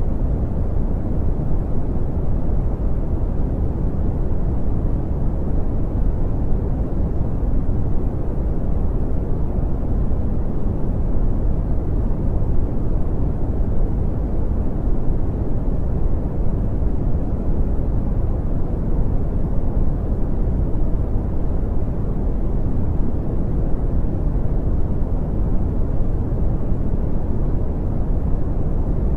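Steady brown noise: an even, deep rumbling hiss with its energy heavy in the low end and little above a couple of kilohertz, unchanging throughout.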